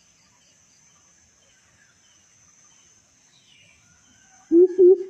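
A coucal (burung but-but) calling: a run of deep, hollow hoots, about three a second, starting near the end. Beneath it, a faint steady high insect trill and faint scattered bird chirps.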